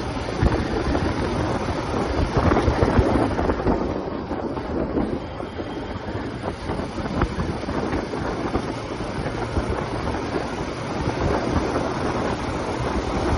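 TVS Apache RTR 180's single-cylinder engine and exhaust running under way, with wind rushing over the microphone. It is louder about two to three seconds in and eases off a little around four to five seconds in.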